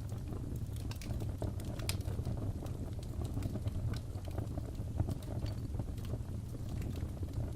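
Crackling fireplace: a steady low rumble of burning wood with irregular sharp pops and snaps.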